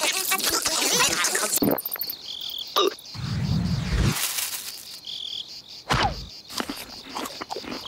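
Insect- and frog-like chirping and buzzing: a dense buzz for the first two seconds, then short high chirps about every three seconds, a low tone lasting about a second near the middle, and two quick falling swoops.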